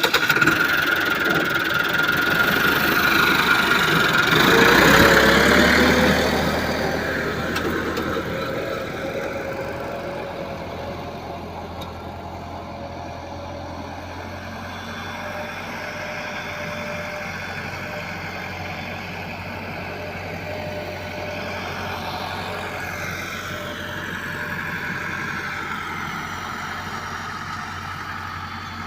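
Massey Ferguson 385 tractor's diesel engine running, louder over the first several seconds, then settling to a steady idle with a knocking note.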